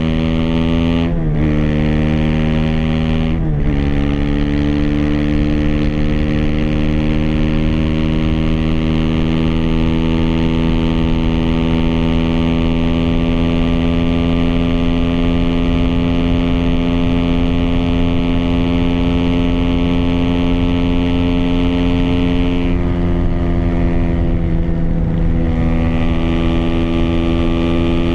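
Aprilia SX 125's single-cylinder four-stroke engine, heard through an Arrow header and slip-on exhaust with a dB-killer, pulling under load on the move. There are two quick upshifts, about one second and three and a half seconds in, each dropping the engine pitch. Then comes a long steady pull with the pitch slowly rising, softening briefly about three-quarters of the way through.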